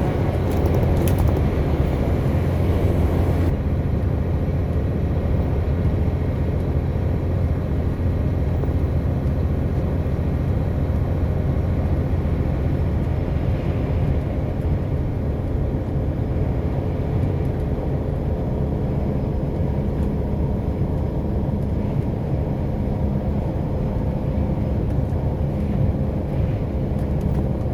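Truck on the move: a steady low rumble of engine and road noise.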